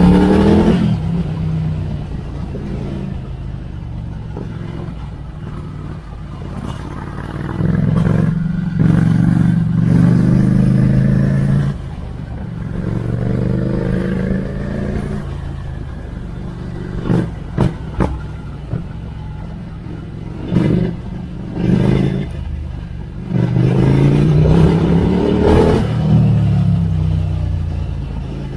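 Ducati Scrambler Icon's 803 cc air-cooled L-twin through a Termignoni exhaust, on the move and accelerating hard several times with rising pitch through the gears, easing off in between. A few sharp cracks come just past the middle.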